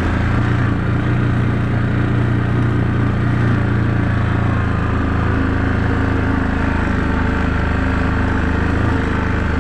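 Yamaha Wolverine 450 ATV engine running at a steady speed as it is ridden through snow.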